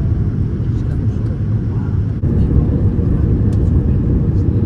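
Loud, steady low rumble of a vehicle in motion, with an abrupt change about two seconds in.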